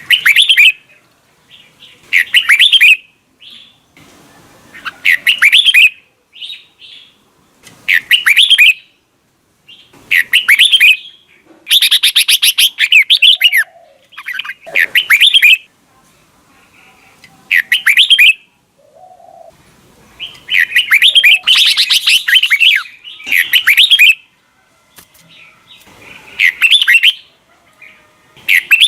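Red-whiskered bulbul singing loud, bright warbled phrases of about a second each, repeated roughly every two seconds with short silent gaps.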